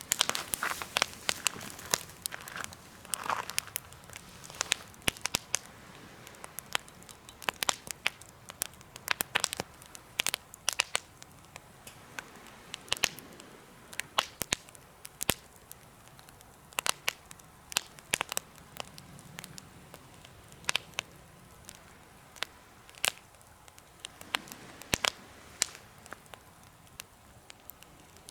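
Campfire crackling: irregular sharp pops from the burning wood, some coming in quick clusters, with a short hiss about three seconds in.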